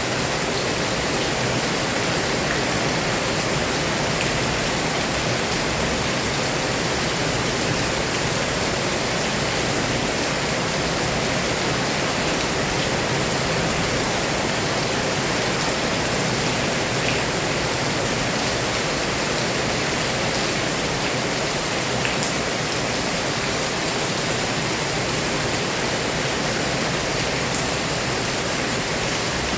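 Heavy rain pouring steadily: a dense, even hiss with no let-up, with a few faint ticks of single drops.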